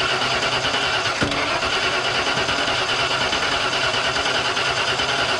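Starter motor cranking the Ford F150's 302 V8 at a steady, even rate without the engine catching. The ignition is making spark, and the owner suspects the non-start is a fuel problem.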